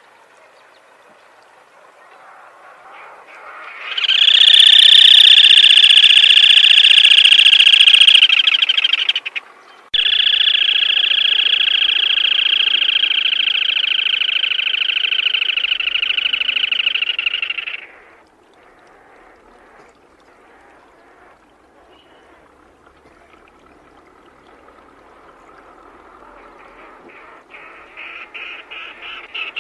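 Black-tailed crake calling: two long, rapid buzzing trills, the first about five seconds long and the second, following after a brief break, about eight seconds long. Near the end, quieter pulsed notes build up into the next trill.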